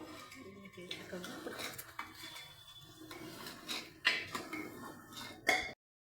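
A spoon scraping and knocking against a metal cooking pot as meat, cauliflower and peas are stirred and fried, with a couple of louder clanks about four and five and a half seconds in. The sound cuts off suddenly near the end.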